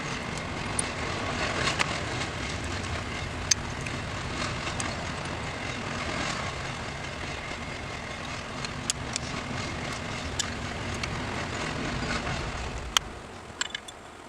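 A steady low rumbling noise, engine-like, with scattered small clicks and taps over it; the rumble fades out near the end.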